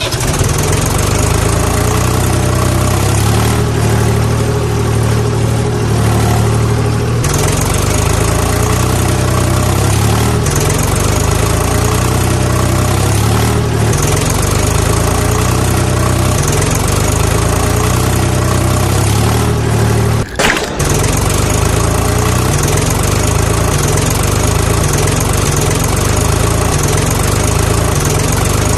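Tractor's diesel engine running steadily at idle with a low, pulsing beat. The sound briefly drops out about twenty seconds in, then carries on unchanged.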